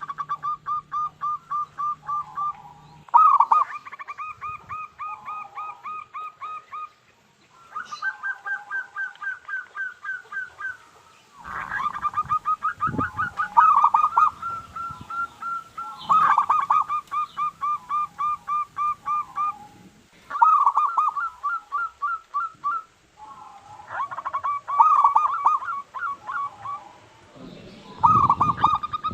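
Zebra dove (perkutut) calling: runs of rapid, evenly repeated cooing notes, about five a second, each run lasting a few seconds, with short pauses between runs and sometimes two runs overlapping.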